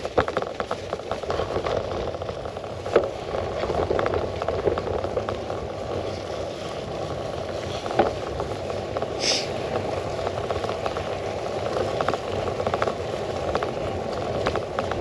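Bicycle riding noise picked up by a handlebar-mounted camera: a steady rumble of tyres and wind, broken by scattered knocks and rattles as the bike goes over bumps. A short high squeak comes about nine seconds in.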